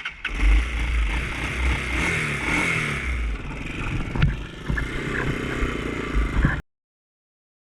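Off-road vehicle engine revving up and down, with rumbling, scraping and clattering and a few sharp knocks; the sound cuts off abruptly about six and a half seconds in.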